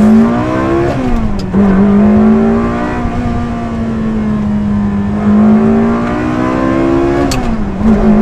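2002 Ferrari 360 Spider's 3.6-litre V8 accelerating hard through the gears, its note climbing and dropping sharply at two upshifts, about a second in and near the end.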